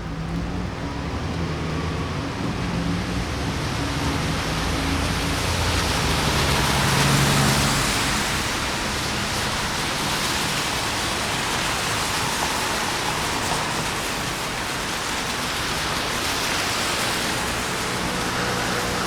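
Steady rain hiss on a city street, with traffic on the wet road; a vehicle's hum swells and passes about seven seconds in.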